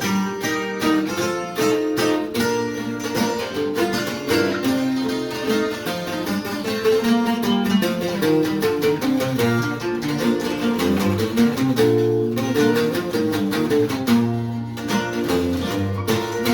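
Instrumental break of a ranchera: a requinto guitar picks a quick melody over a steel-strung bajo quinto (walnut body, Sitka spruce top) playing chords and bass runs.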